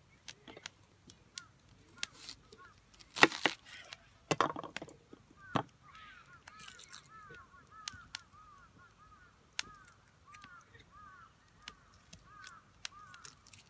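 Firewood being split: three sharp wooden blows a little over a second apart, a few seconds in, among lighter knocks and small crackles. After them a bird calls in a rapid run of short repeated chirps.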